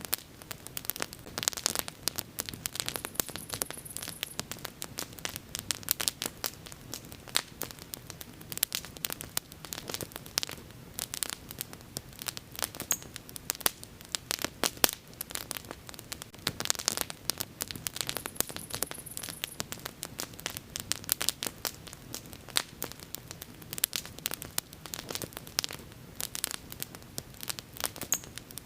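Wood fire burning in the open, crackling and popping in a dense, irregular stream of sharp snaps over a soft low rumble of flame.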